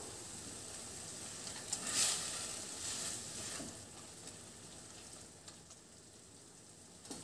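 Chana dal frying in oil in a stainless steel kadhai, sizzling steadily as a metal spoon stirs it through, with a few louder stirs about two and three seconds in. The sizzle grows fainter in the second half.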